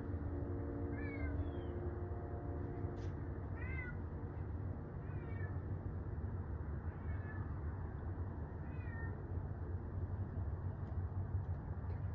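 Domestic cat meowing repeatedly, about five short, high, falling meows every second or two, over a steady low rumble.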